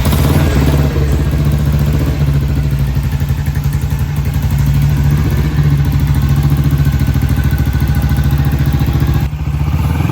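BSA Gold Star DB34's single-cylinder engine running steadily at a fast idle with a quick, even beat, with a brief break and change in tone near the end.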